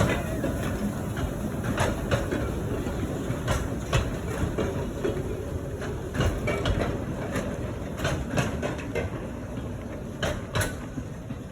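A narrow-gauge light railway train rolling along the track: a steady rumble with irregular clicks and clacks from the wheels on the rails, easing off toward the end.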